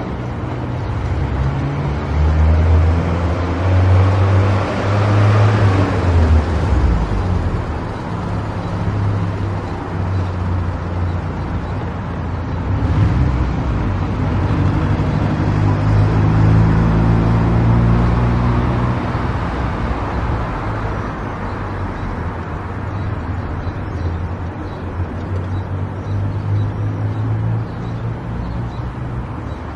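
A car driving on a road, with engine and tyre noise. The engine note rises and falls, and is loudest about two to seven seconds in and again around fifteen to eighteen seconds.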